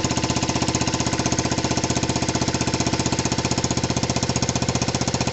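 Dirt bike engine running steadily just after a cold start, an even, rapid beat of firing pulses. It runs sweetly now that its carburettor has been cleaned.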